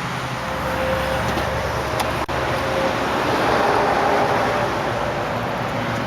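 Hyundai Elantra engine running at idle after being started, a steady sound under a noisy background haze.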